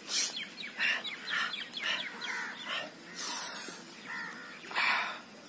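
Birds calling: a run of many short chirps, with three louder, harsh calls, one near the start, one about three seconds in and one near the end.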